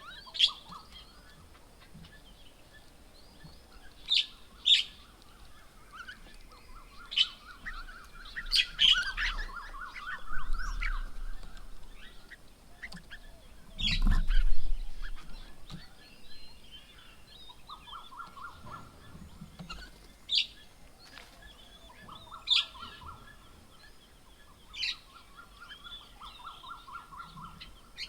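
Several birds calling at a bird table: short, sharp high calls at intervals, and rapid pulsed trills that run for two or three seconds at a time. A brief low rumble about halfway through is the loudest moment.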